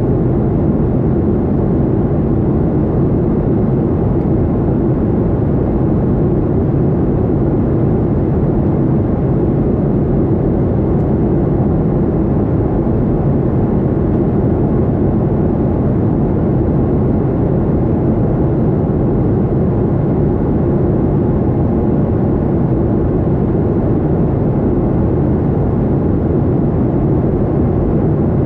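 Boeing 737-800 jet airliner in flight: a steady drone of its CFM56-7B turbofan engines and rushing airflow, unchanging throughout, with a faint steady hum in the low-mid range.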